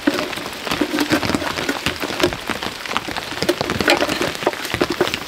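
Steady rain, with drops ticking sharply and irregularly on a small umbrella mounted just above the microphone.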